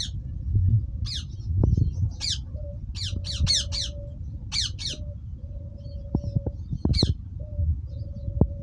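Ringneck parakeets squawking: about eight short, harsh, high calls, each falling in pitch, several in quick succession mid-way, over a low rumble with small knocks.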